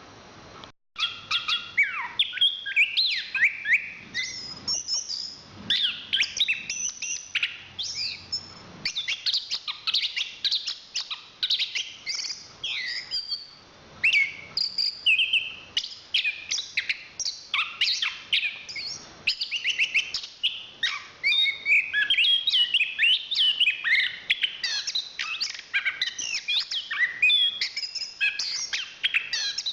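Chestnut-capped thrush (anis kembang) singing: a fast, nearly unbroken run of varied high chirps and whistles, with a brief break about a second in.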